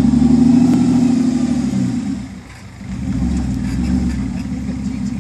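Engine of a Geo Tracker rock crawler pulling at low speed, its pitch rising a little and then falling; about two and a half seconds in it drops off almost completely for a moment before coming back on the throttle.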